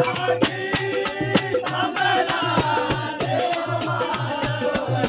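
Marathi devotional bhajan music: a fast, steady drum beat of about four strokes a second with jingling metal percussion, under a melodic line that rises and falls.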